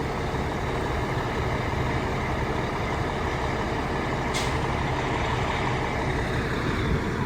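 Freightliner Classic tow truck's diesel engine running steadily while its hydraulic underlift raises the rear of a semi tractor, with one brief sharp sound about four and a half seconds in.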